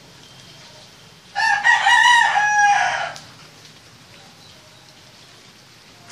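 A rooster crowing once, a single loud call of nearly two seconds that drops in pitch at the end. A short click follows near the end.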